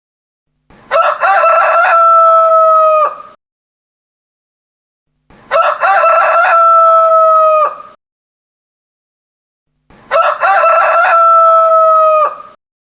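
A rooster crowing three times, one crow about every four and a half seconds, each about two and a half seconds long. The three crows are identical, the same crow repeated.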